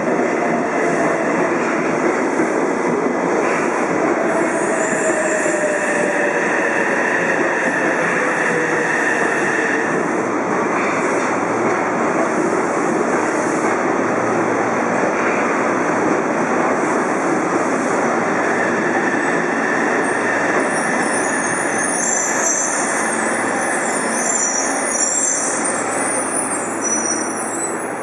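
Yokohama Municipal Subway Blue Line train running at the platform: a steady, loud rumble of wheels on rail with squealing, and an electric motor whine that falls in pitch from about four to ten seconds in.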